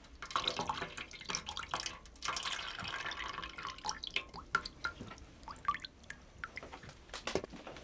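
Water splashing for the first few seconds, then a run of separate drips and small splashes.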